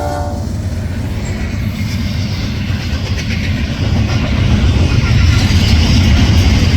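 Diesel locomotive's air horn chord cutting off about half a second in, followed by the steady low rumble of a Norfolk Southern train running past. The rumble grows louder toward the end.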